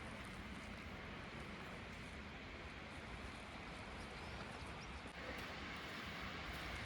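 Steady outdoor rushing noise with no distinct events; it gets slightly louder and brighter about five seconds in.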